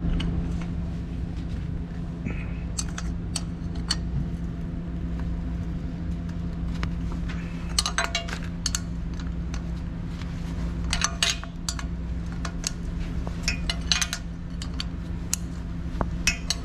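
Wrench clinking and scraping on steel hydraulic fittings, in many short, irregular metallic clicks, as the hydraulic lines are loosened. An engine idles steadily underneath.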